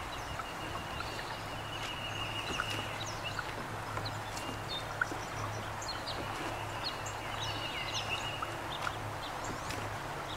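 Small birds chirping and calling at intervals, with two held high notes, over a steady background hiss and low hum.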